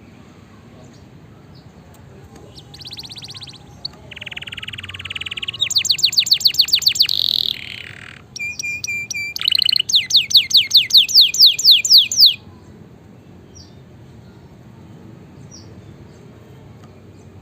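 Domestic canary singing one song phrase of about ten seconds, starting a couple of seconds in. It runs through buzzy rolls and rapid trills, then a string of quick, sharply falling notes, and stops abruptly.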